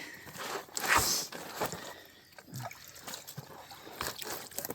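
Creek water splashing and trickling as a sifting screen is sunk into the shallow water, with a louder splash about a second in and a few small knocks.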